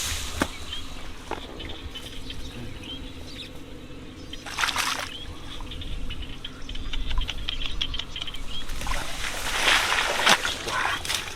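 Water in a rice field splashing and trickling, with two longer bursts of splashing, one about halfway and a longer one near the end, and scattered small clicks between them.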